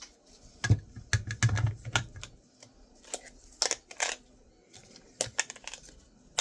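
Small metal hard-drive parts being handled and set down: clusters of sharp clicks and light clinks, with a few dull knocks about a second in.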